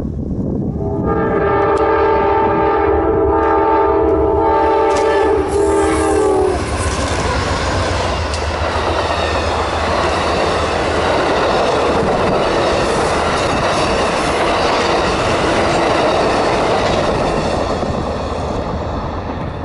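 Amtrak GE Genesis diesel locomotive sounding one long chord on its air horn for about five seconds as it approaches. The horn stops about six seconds in, and the train then passes close by: the locomotive and the steady noise of bilevel passenger cars' wheels running on the rails.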